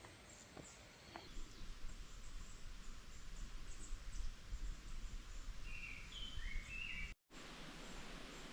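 Outdoor ambience: a steady low rumble of wind-like noise, with a few short bird chirps about six seconds in. The sound drops out abruptly for a moment near the end.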